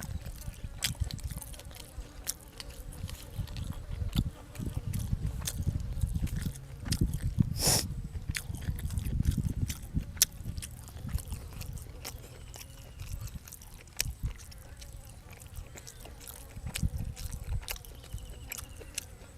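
A person chewing and biting food close to the microphone: uneven mouthfuls with many short sharp clicks, and one brief louder crunchy burst about eight seconds in.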